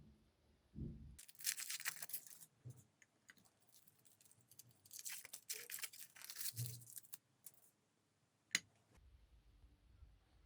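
Crinkly wrapper being torn and crumpled in two bouts, one of about a second and a later one of about two seconds, with a single sharp click near the end.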